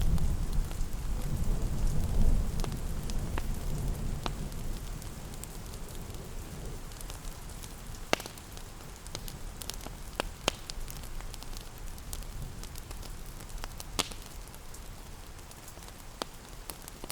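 Steady rain with a wood fire crackling, sharp pops standing out every few seconds. A low thunder rumble fades away over the first few seconds.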